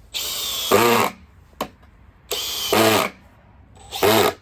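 Makita XPH14 brushless 18V drill driver in high speed (speed 2) driving a 3.5-inch screw into wood, in three short bursts of the trigger. The motor note drops as each burst ends.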